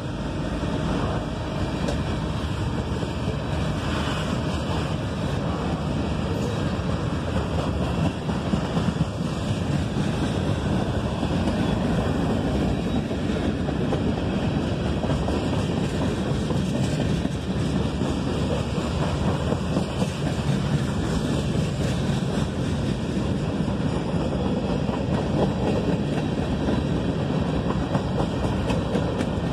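Freight cars (covered hoppers and boxcars) rolling past on the rails: a steady rumble of steel wheels on track, with an occasional sharp knock.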